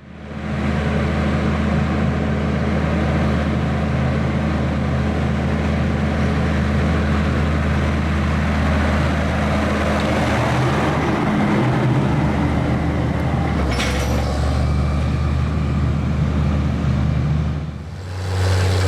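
John Deere 9420 tractor's 12.5-litre diesel engine running steadily under load while pulling a tillage disk. It fades in at the start, with a brief sharp click about 14 seconds in, and dips for a moment near the end.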